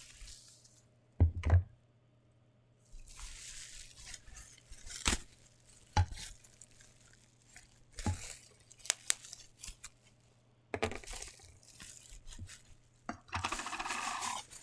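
Packaging being handled and torn open by hand: bursts of tearing and crinkling plastic wrap and cardboard, with a few sharp knocks and taps in between.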